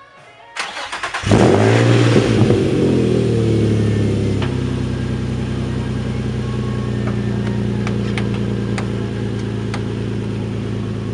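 Nissan 350Z's 3.5-litre V6 being started: the starter cranks briefly, the engine catches about a second in with a flare of revs that falls away over a few seconds, then settles into a steady idle.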